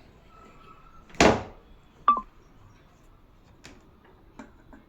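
Small clicks and handling noises as a replacement speaker's wire connector is fitted to the TV's board. A brief loud noisy burst comes about a second in, a short tone falling in pitch about two seconds in, and light clicks near the end.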